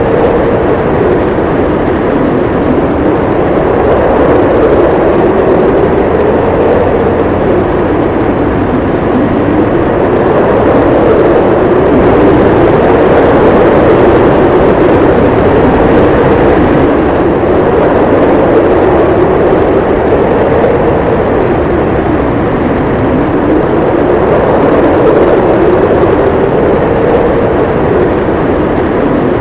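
Howling wind of a snowstorm: a loud, steady rush with a moaning tone that slowly rises and falls every few seconds.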